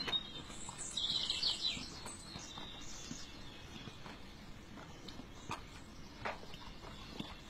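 A small bird chirps briefly about a second in, over faint scattered knocks and shuffling.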